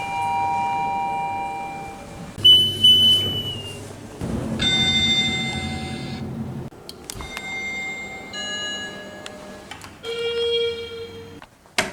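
A run of elevator chimes and electronic beeps from several different lifts, one after another: each a steady electronic tone or two-note chime lasting a second or two, at different pitches, with abrupt breaks between them.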